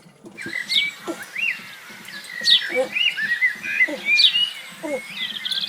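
Birds chirping: a steady run of short chirps and sliding calls, with quick high falling notes every second or so.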